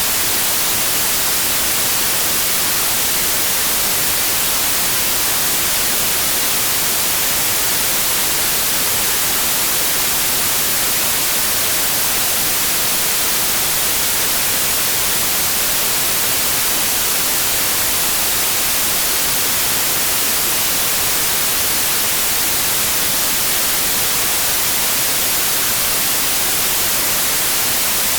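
Steady white noise: an even, unchanging hiss, strongest in the high frequencies, with no tones or breaks.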